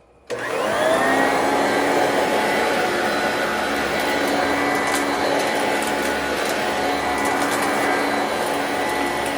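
Singer System 90 vacuum cleaner switched on, its motor rising in pitch as it spins up over the first second, then running steadily.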